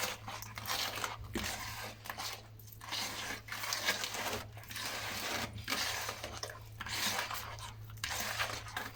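Butter, sugar and egg mixture being worked in a bowl, a scraping, squelching stroke repeating about once a second, over a faint steady low hum.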